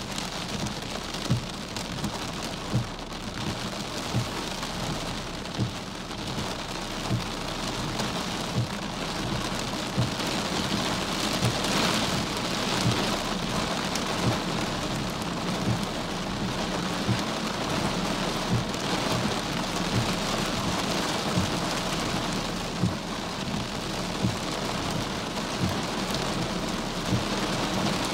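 Heavy rain pouring steadily, with sharp taps from larger drops every second or two. The downpour swells heavier around the middle.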